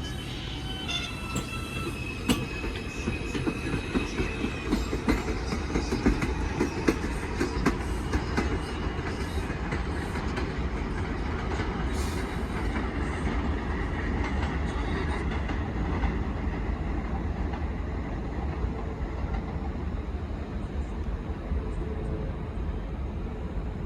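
New York City Subway 4 train running past: a steady rumble with rapid wheel clatter, densest in the first half, and a thin high wheel squeal over the first few seconds.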